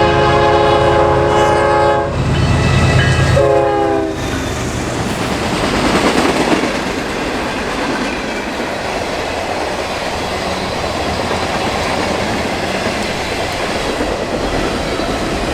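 Diesel locomotive's multi-chime air horn sounding a long blast and then a short one over the engine's low rumble. A passing train follows, rolling by with steady wheel-on-rail rushing and clatter.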